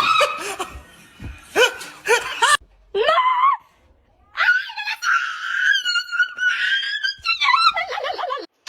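A person screaming: a few short high shrieks, then one long wavering scream in the second half.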